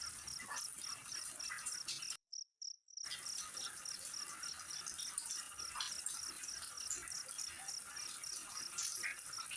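An insect chirping in an even, high-pitched rhythm of about four pulses a second, over a faint hiss of flowing water. The sound cuts out completely for under a second about two seconds in.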